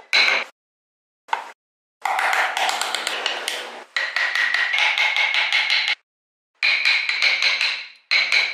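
Rapid tapping of a hammer on a carving tool in wood, several strikes a second with a ringing pitch, in short bursts that cut off suddenly into silence.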